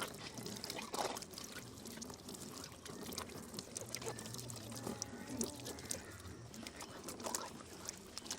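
Water pouring and splashing from a pedal-operated handwashing station, with scattered light clicks and knocks.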